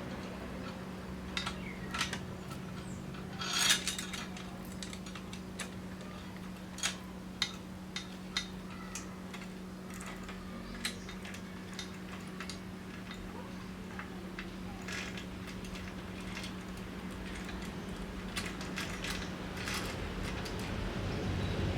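Scattered metallic clicks and clinks of tools and small bicycle parts being handled during assembly, over a steady low hum.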